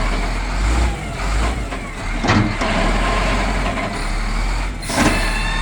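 Diesel engine of a wheel loader (payloader) running under load while it lifts and moves a truck, with a couple of heavy knocks, one about two seconds in and one near the end.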